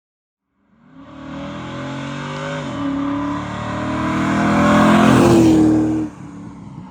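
Ford BA XR8's V8 through a custom exhaust with hotdog mufflers, accelerating hard. It comes in about a second in, its revs climb, dip at a gear change about three seconds in, then climb again and grow louder before the sound drops away suddenly near the end.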